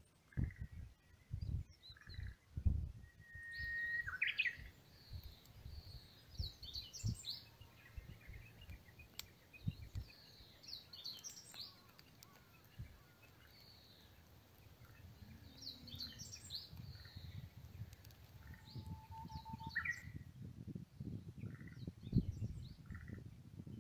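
Wild birds chirping and whistling, with several short calls and a couple of longer clear whistles. Irregular low thumps and rumble run underneath.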